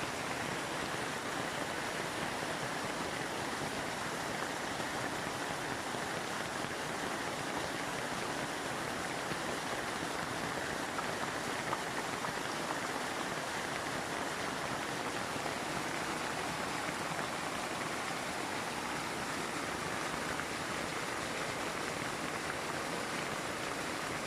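Steady rushing hiss, even throughout, with no distinct events.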